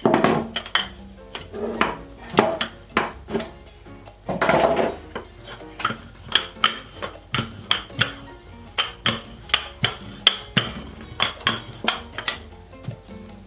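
Repeated light kitchen knocks and clinks, roughly two to three a second, while bread dough is rolled out and shaped, with soft background music.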